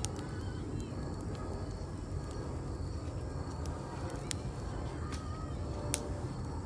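Wood fire burning: a steady low rush of flames with sharp, irregular pops and crackles from the burning wood, the loudest pops a little past four seconds and about six seconds in.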